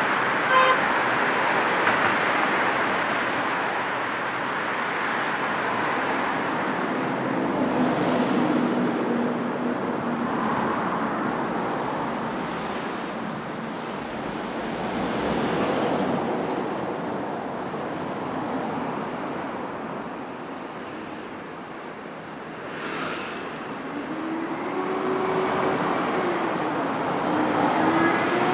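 Steady road traffic, vehicles passing one after another so the tyre and engine noise swells and fades every few seconds, with a short car-horn toot about half a second in.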